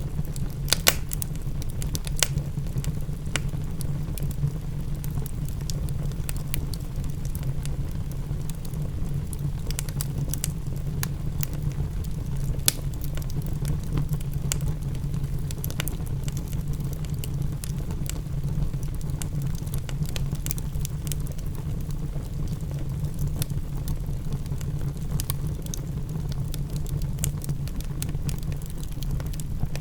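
Fireplace fire crackling, with scattered sharp pops at irregular intervals over a steady low rumble.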